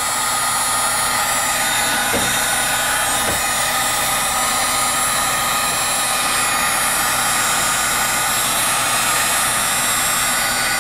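Electric heat gun blowing steadily, thawing ice off a frozen-up walk-in cooler evaporator coil.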